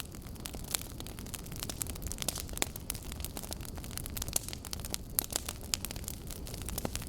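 Wood fire burning, its logs crackling with irregular sharp pops over a steady low rumble of the flames.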